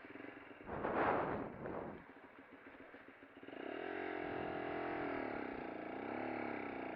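Lexmoto LXR motorcycle engine running, its pitch rising and falling with the throttle, from about three and a half seconds in. About a second in, a brief rush of noise.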